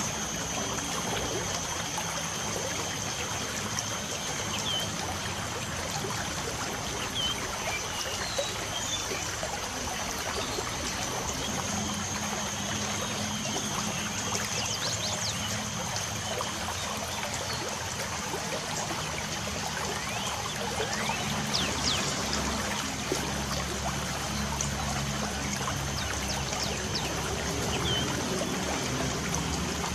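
Light rain falling with steady trickling and dripping water, and a few short bird chirps scattered through it over a steady high tone.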